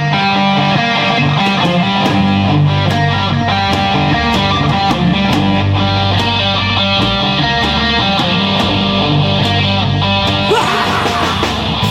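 A rock band playing live: a heavy electric guitar riff over bass guitar and drums, with cymbal crashes at a steady beat.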